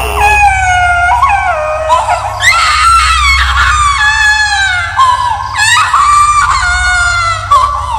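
High-pitched baby crying used as a horror sound effect: a series of long wails, each sliding down in pitch, over a low steady rumble.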